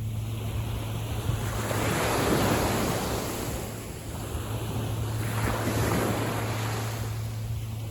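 Small waves of a calm sea washing in, swelling twice about three seconds apart. A steady low rumble of wind on the microphone runs underneath.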